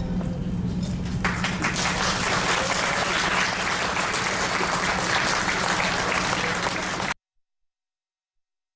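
Audience applauding, swelling about a second in, over a steady low hum; it cuts off abruptly about seven seconds in.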